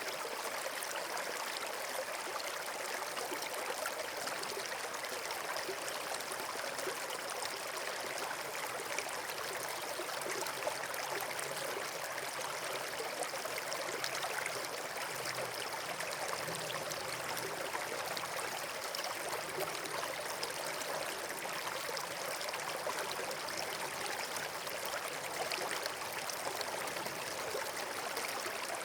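Flowing stream water, a steady unbroken rushing.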